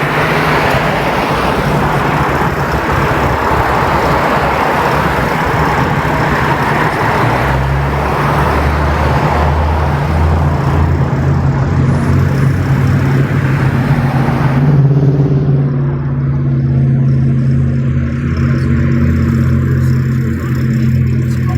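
A vehicle engine idling with a steady low hum, under a rush of road traffic noise that cuts off suddenly about fifteen seconds in, leaving the engine hum alone.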